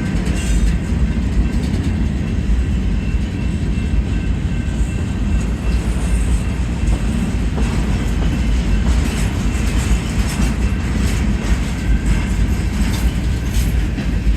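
Freight cars of a long, slow manifest train rolling past: a steady, heavy rumble of steel wheels on rail, with scattered clacks as the wheels cross rail joints.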